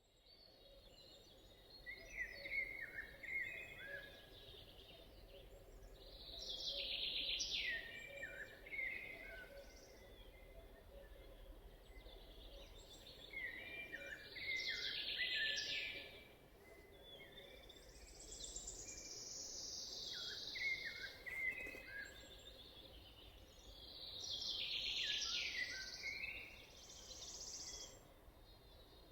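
Songbirds singing in a forest: one bird repeats a short descending song phrase about every eight to nine seconds, with a second, higher-pitched song and scattered chirps between, over a faint steady background hush.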